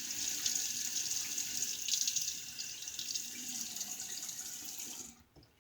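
Water running from a sink tap, steady with some splashing, shut off about five seconds in.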